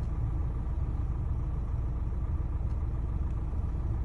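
Renault Talisman engine idling: a steady low rumble with no change in pitch.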